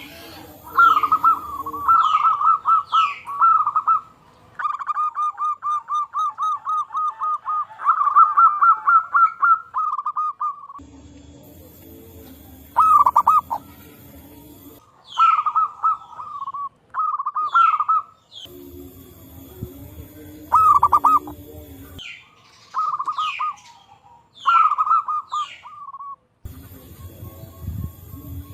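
Zebra dove (perkutut) cooing: repeated phrases of quick, rolling notes, one long unbroken run of them in the middle, with short high descending chirps from another bird between phrases. A low hum cuts in and out abruptly between stretches.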